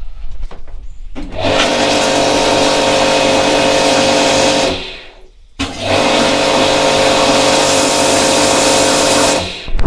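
Ryobi electric pressure washer's motor and pump running, started twice for about three and a half seconds each and cutting off in between, with a sharp click near the end. The machine runs but does not reach its proper pressure, which the mechanic puts down to damaged high-pressure valves in the pump.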